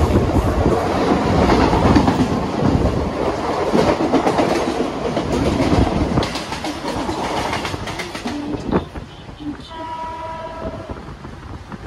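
Loud rushing rumble and rattle of a suburban electric local train, heard at its open doorway while another local train passes close alongside on the next track. The noise drops off about eight and a half seconds in, and a short train horn sounds near the end.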